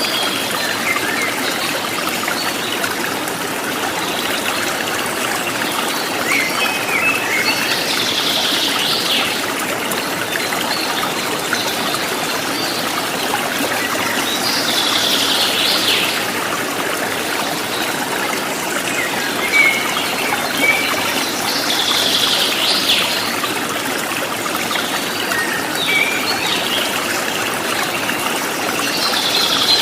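Running water trickling and babbling steadily, with birds singing over it: a louder call phrase comes every six or seven seconds, with short chirps in between.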